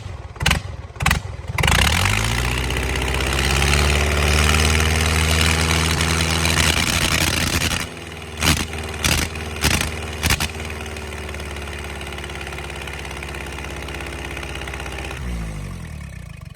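Rebuilt four-cylinder engine of an aircraft pushback tractor. It catches about a second and a half in, rising to a fast run, then settles to a quieter steady idle about halfway. Its pitch falls as it winds down and stops at the end. Several sharp clicks come just before it catches and again around the middle.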